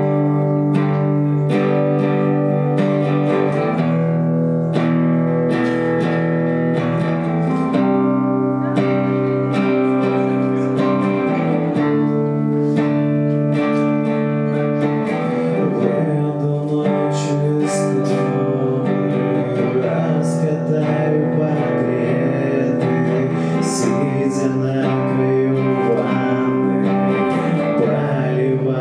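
Acoustic guitar playing a song, with steady, rhythmic strumming and picking of sustained chords.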